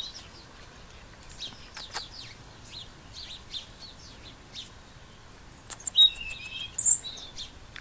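Small birds chirping in short, high calls, scattered and faint at first, with the loudest chirps about six and seven seconds in.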